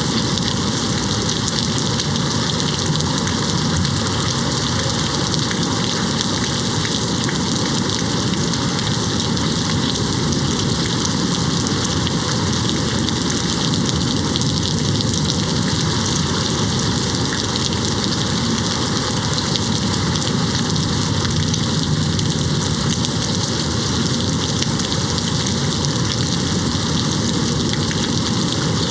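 Steady rain falling on a window, an even, unbroken hiss with no thunder.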